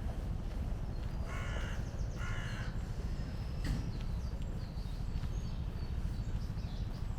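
A crow cawing twice, about a second apart, over a steady low background rumble, with faint chirps of small birds.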